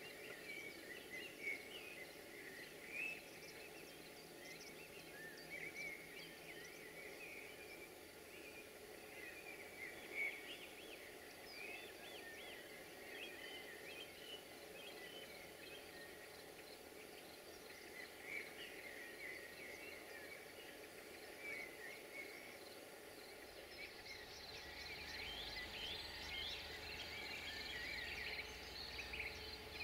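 Wild birds singing: many short chirps and trills, faint over a steady low background hum, growing denser near the end.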